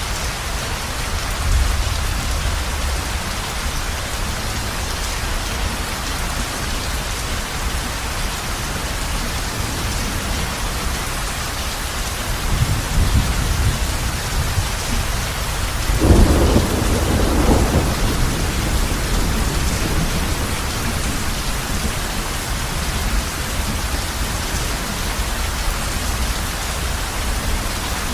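Heavy rain falling steadily on a roof, with thunder rumbling: a low roll about halfway through, then a louder one that breaks suddenly a few seconds later and dies away over about three seconds.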